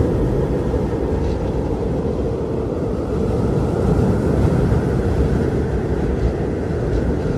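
Strong wind blowing, a deep steady rush that swells slightly about halfway through.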